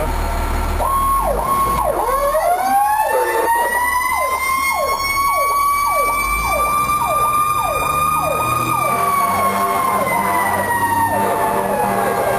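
Fire engine sirens sounding as the truck responds, heard from the apparatus itself. One siren repeats quick falling sweeps about twice a second, while a second siren's tone rises slowly for several seconds and then slowly winds down. The truck's engine rumbles underneath.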